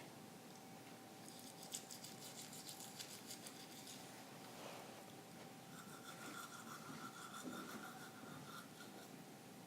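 Toothbrush scrubbing teeth: a faint, fast, rhythmic scratching in two spells, one starting about a second in and another from about six seconds.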